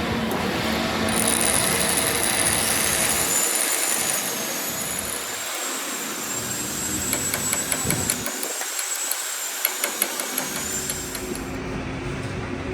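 A workshop machine tool running steadily, with a thin high whine that wavers in pitch, and a run of light, evenly spaced ticks about two-thirds of the way through.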